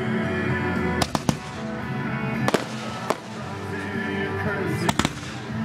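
Fireworks going off: about six sharp bangs, a pair about a second in, single bangs near two and a half and three seconds, and another close pair near five seconds. Music plays steadily underneath.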